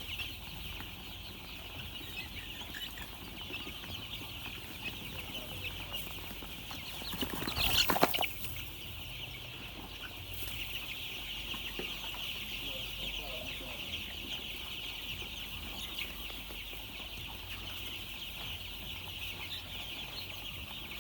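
A large brood of chicks peeping continuously, a dense high chirping. About seven seconds in there is a brief, much louder burst of noise.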